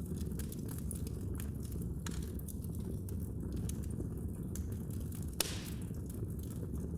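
Wood fire in a fireplace crackling: a steady low rumble of burning with scattered sharp pops, and one louder pop about five and a half seconds in, followed by a brief hiss.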